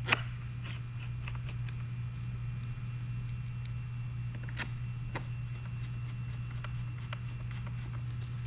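Scattered light clicks and taps of metal bolts and rail parts being handled as bolts are started by hand, the sharpest one right at the start, over a steady low hum.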